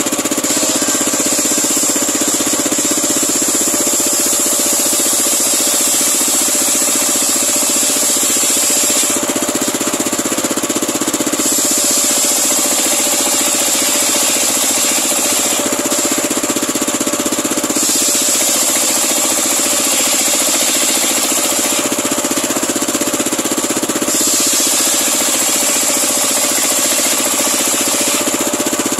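Homemade engine-driven circular sawmill running steadily as it rips a large pule log into boards, with a high hiss from the blade that comes in and drops out every few seconds.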